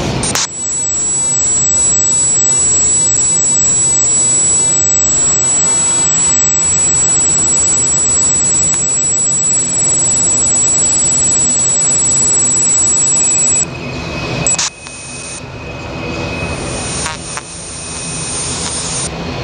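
Jet airliner engines at takeoff power, a loud steady roar with a high whine on top. A little over two-thirds of the way in, the sound breaks off abruptly several times and drops somewhat in level.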